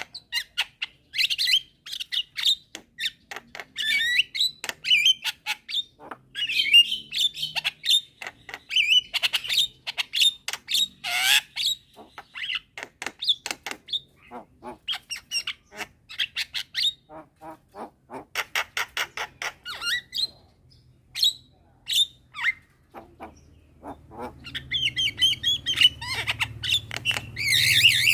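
Javan mynas calling: a dense run of rapid, harsh chattering and squawking notes, a young bird calling and others answering. A low steady hum comes in near the end.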